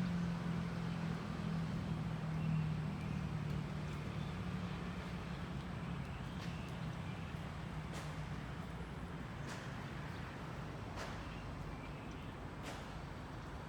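Low drone of motor-vehicle traffic, fading over the first half, with several sharp clicks later on.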